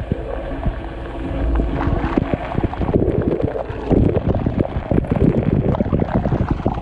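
Dishwasher running a wash cycle, heard from inside the tub: water from the spray arms splashing against the camera in a dense, uneven patter of hits over a low churning rumble.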